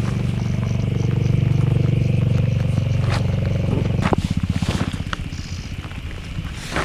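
An engine running steadily, then dropping about four seconds in to a slower, uneven idle, with a few sharp clicks over it.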